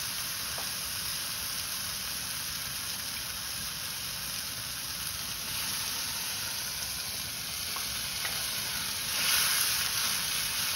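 Ground curry-leaf paste sizzling in hot sesame oil in a nonstick pan while it is stirred with a wooden spatula. Near the end the sizzling gets louder as water poured in from the mixer jar hits the hot paste.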